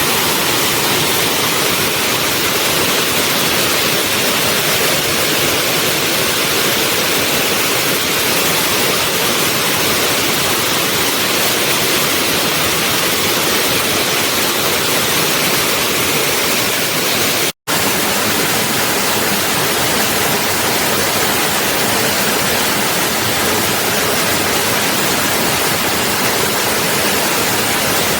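Waterfall, its water rushing steadily, loud and unbroken. It cuts out for an instant about two-thirds of the way through, then resumes.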